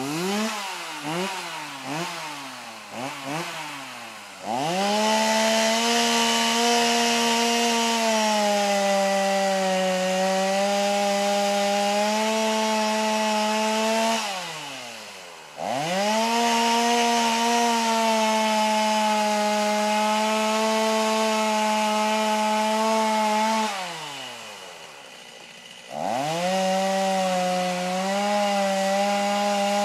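Two-stroke chainsaw blipped several times in quick revs, then held at full throttle three times for several seconds each, the pitch sagging slightly as the chain bites into a tree, dropping back to idle between cuts.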